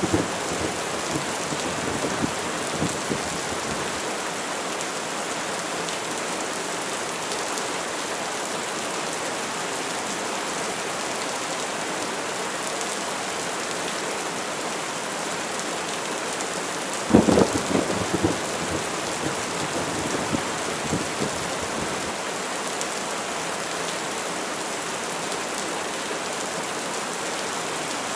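Steady rain falling, with a thunderclap about 17 seconds in that rumbles away over the next few seconds; the tail of an earlier rumble fades in the first few seconds.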